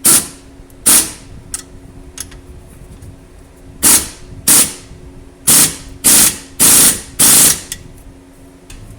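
Impact wrench hammering the nuts onto a new exhaust clamp's bolts in about eight short bursts, drawing the two exhaust pipes together.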